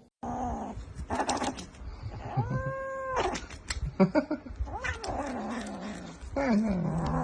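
Domestic cat yowling in several drawn-out meows, one long call held for about a second near the middle, with sharp clicks and knocks in between.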